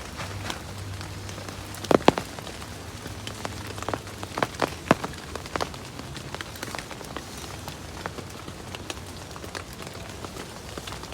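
Steady rain, with large drops striking a surface in irregular sharp taps. The loudest taps come as a pair about two seconds in.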